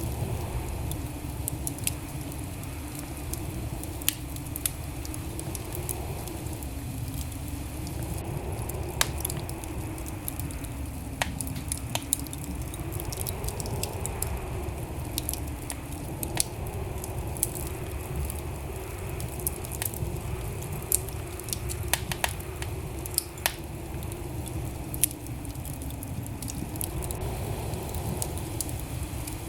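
Wood fire burning in a fireplace: irregular sharp crackles and pops over a steady low rumble, with a faint wavering hum underneath.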